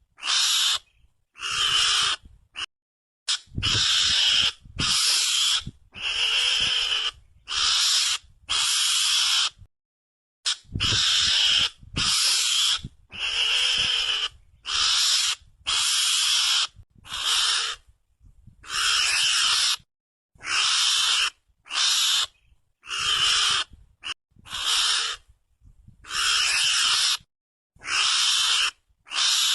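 Mongoose (garangan) calls used as a hunting lure: short, harsh screeching calls repeated about once a second, some in quick pairs, with clean silent gaps between them.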